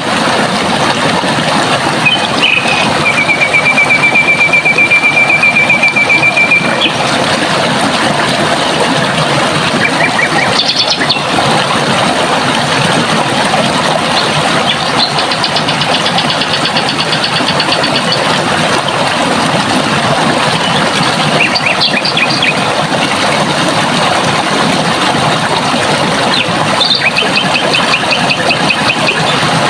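Steady rush of running water with a bird singing over it: a rapid, even trill lasting about four seconds a few seconds in, then shorter, higher trills and brief calls later on.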